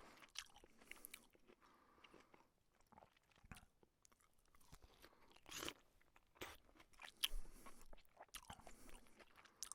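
A cat chewing egg: faint, irregular smacking and crunching bites, a few louder ones in the second half.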